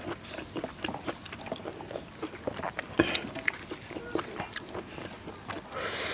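Close-up eating sounds: wet chewing and lip-smacking on a mouthful of rice and vegetable curry, a quick irregular run of small clicks, with a louder breathy slurp near the end.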